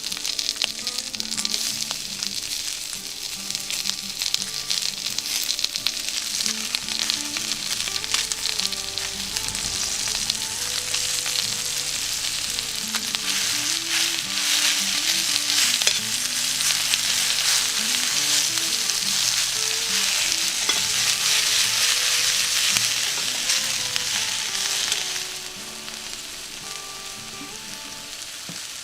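Food frying in a skillet over an open campfire, a steady high sizzle that grows louder toward the middle and falls away sharply about 25 seconds in.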